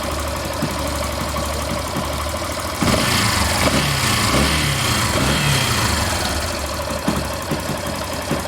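Yamaha Factor 150's single-cylinder engine idling steadily with its new stator fitted, with none of the noise that the burnt stator had caused. About three seconds in, a louder, broader noise with a wavering pitch rises over the idle for about three seconds, then fades.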